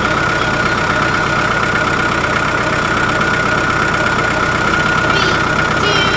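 Steady engine idling, a recorded monster-truck-style engine sound, with a constant high whine running through it.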